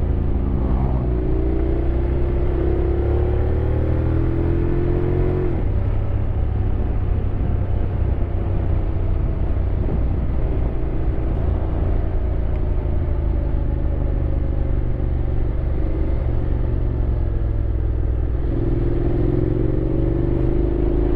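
Honda X-ADV 750's parallel-twin engine under way. The revs climb for a few seconds, drop at a shift, run steadily, then climb again near the end, over steady wind and road rumble.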